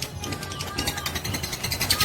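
Fighter lovebird chattering in a long, rapid pulsed trill (ngekek), about a dozen notes a second, growing louder near the end, over a steady low hum.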